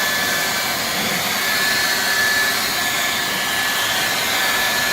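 Handheld leaf blower running steadily, blowing water off a truck's coated paint, a whoosh of air with a steady high motor whine.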